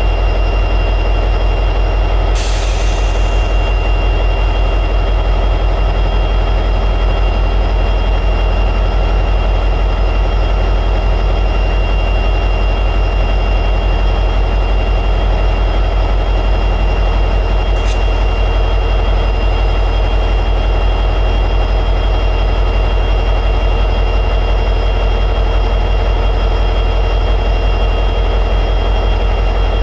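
EMD 710G3B two-stroke diesel prime mover of an SD60 locomotive running steadily at high idle, with a high steady whine over the low engine beat. A short hiss about two seconds in and a single sharp click later on.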